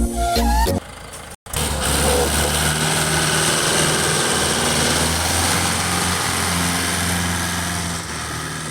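Music for the first second, then after a brief cut a tractor's diesel engine running steadily with a low, even drone.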